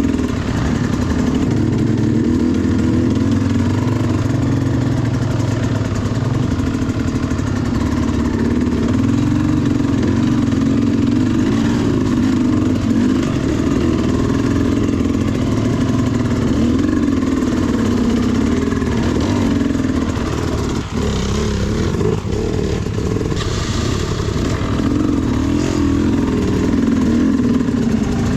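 Sherco SE300 two-stroke enduro motorcycle engine running under constantly changing throttle, its pitch rising and falling as it is worked up steep technical terrain. There is a short, harsher, noisier stretch about three quarters of the way through.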